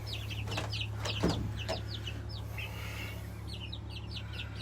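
Baby chicks and turkey poults peeping: many short, high, downward-sliding peeps, several a second, over a steady low hum, with a single soft thump about a second in.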